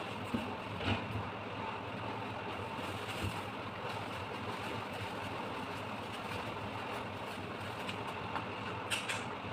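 Steady mechanical hum and hiss, with a few light clicks and taps scattered through it: a pair of sharper clicks comes near the end.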